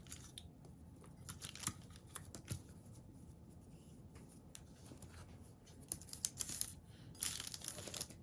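Scattered light clicks and paper rustling from handling things on the table, with a longer rustle near the end.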